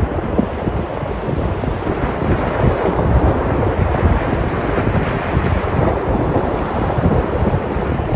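Sea surf breaking and washing onto the shore in a dense, steady rush that swells a little a few seconds in. Wind buffets the microphone with a gusty low rumble underneath.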